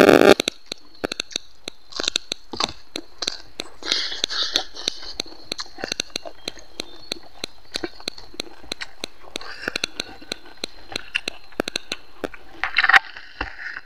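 Close-up chewing of a mouthful of rice and pork curry: many short wet mouth clicks and smacks, with a louder smacking burst near the end.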